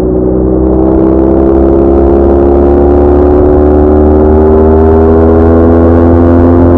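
BMW R1200R motorcycle's flat-twin engine under way, its pitch rising slowly and steadily as the bike gathers speed.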